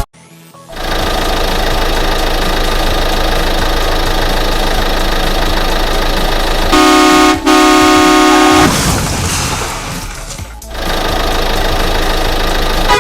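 A vehicle horn sounds, a steady held honk about seven seconds in, broken once briefly, over a continuous steady engine-like noise.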